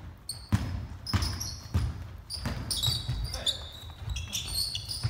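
A basketball dribbled on a court floor, about four bounces roughly 0.6 s apart, followed by rapid high squeaks of sneakers on the floor from about halfway through, in a reverberant gym.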